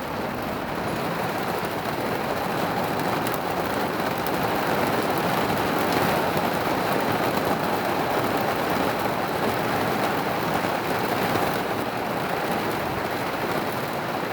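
Heavy rain pouring down in a thunderstorm, a steady dense hiss that swells a little in the middle.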